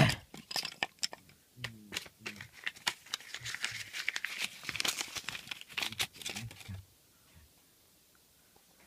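Crinkling and rustling with many small clicks and knocks as objects are handled. It stops about seven seconds in.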